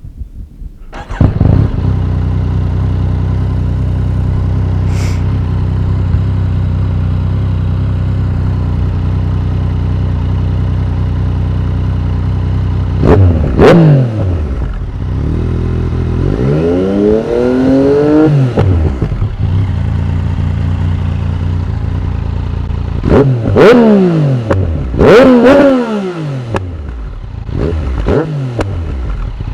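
2017 Yamaha MT-09's three-cylinder engine through an Akrapovic carbon full exhaust, idling steadily and then revved: one quick blip, a longer rise and fall, then several quick blips near the end. The dB killer is fitted, and the exhaust is very loud even so.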